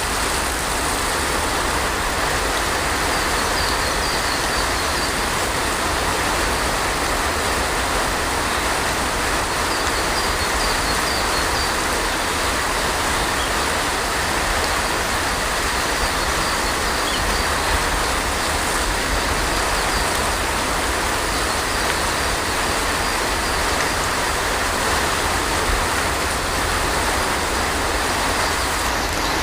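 Heavy rain falling steadily, an even dense hiss with no breaks or thunder claps.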